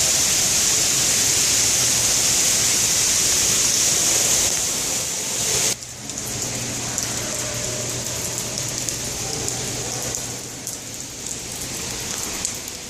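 Water leaking from the ceiling inside a subway station and falling like rain onto the floor: a steady heavy splashing that cuts down suddenly about six seconds in to a lighter patter of scattered drips.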